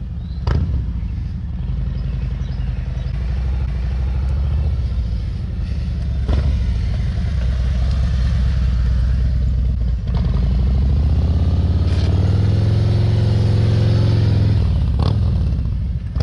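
Motorcycle engine running at low revs during slow-speed maneuvering, its note rising a little about eleven seconds in, holding, then dropping back near the end. A few brief clicks sound over it.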